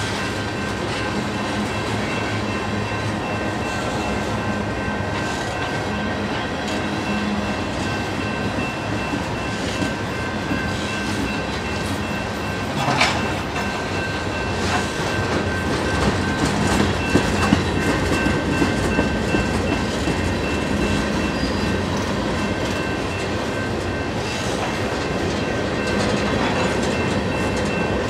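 Freight train of tank cars and covered hoppers rolling past close by, steel wheels clattering over the rail joints, with occasional sharper clanks, the first about halfway through.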